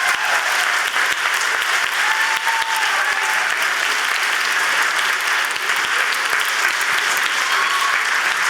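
Audience applauding: dense, steady clapping, with a voice or two calling out faintly above it.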